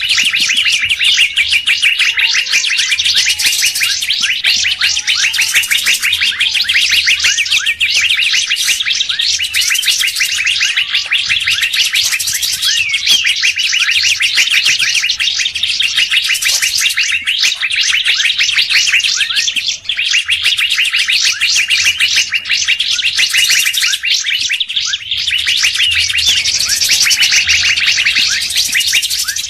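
Dense, unbroken chatter of several songbirds layered together, many fast repeated chirps a second: a bird-lure call recording of the kind played to attract birds such as fairy-bluebirds, leafbirds and drongos.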